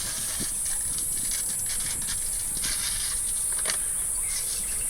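Aluminium foil and wood chips being handled, with quick irregular crinkling and rustling, over a steady high-pitched hiss.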